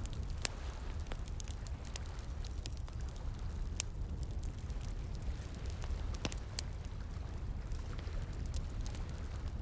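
Campfire crackling with scattered, irregular sharp pops, over a steady low rush of flowing water.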